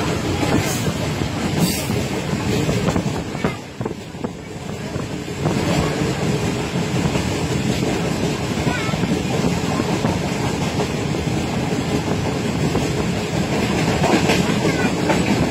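Karakoram Express passenger train running at speed, heard from inside a coach: a steady rumble and rattle of the wheels on the track, briefly quieter about four seconds in.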